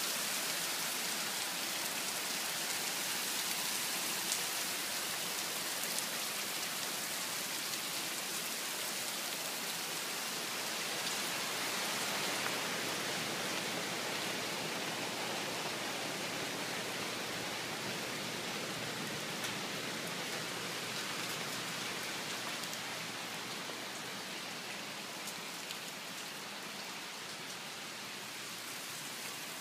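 Heavy rain pouring down steadily: a dense, even hiss with scattered sharper drop ticks, easing slightly near the end.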